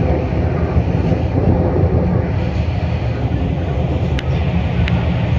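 Beijing Subway Line 6 train running between stations, heard from inside the car as a steady, dense rumble. Two short ticks sound near the end.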